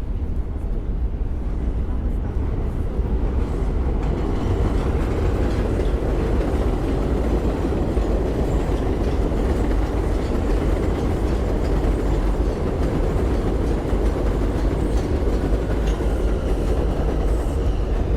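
Elevated subway train running on the el structure overhead, a steady loud rumble of wheels on rails that builds over the first few seconds and then holds.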